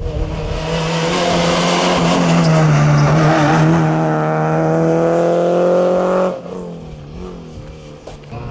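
Rally car passing at speed on a special stage, its engine held at high revs and rising in pitch, then cutting away sharply about six seconds in.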